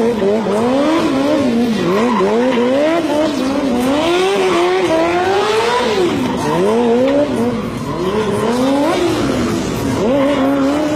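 Yamaha R6 sport bike's inline-four engine revving up and down over and over, the pitch rising and falling every second or so.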